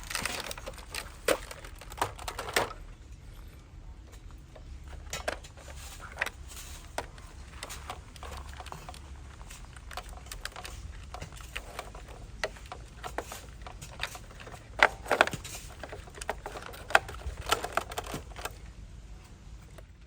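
Irregular small clicks, scrapes and clatters of loose soil and pebbles being worked by an RC excavator and dump truck, over a faint low hum.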